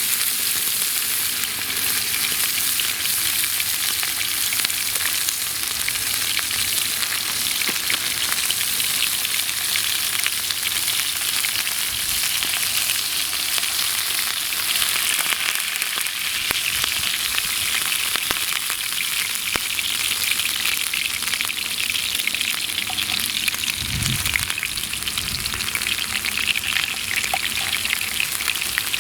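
Campfire crackling steadily, a dense run of small pops and snaps, with a dull low thud near the end.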